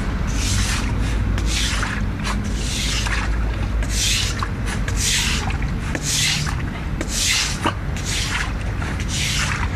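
Sweeping water across a wet floor: quick, uneven swishing strokes, roughly one or two a second, over a steady low hum.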